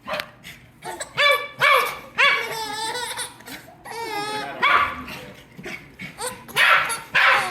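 A baby squealing and giggling in a string of short, high, wavering calls, mixed with a pet dog's barks and yips as it runs around.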